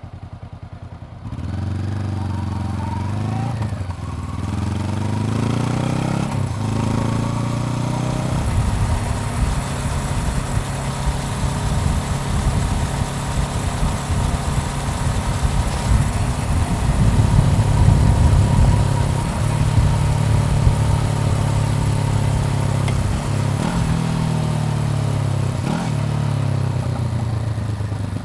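Honda CBR400R parallel-twin engine idling, then pulling away about a second in and revving up through two gear changes. It settles into steady cruising with wind rush over the microphone, then the revs fall as the bike slows near the end.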